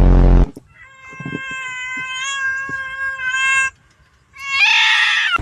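A cat yowling: one long, drawn-out cry held at a steady pitch for nearly three seconds, then a shorter, harsher cry near the end. A brief loud burst of noise comes right at the start.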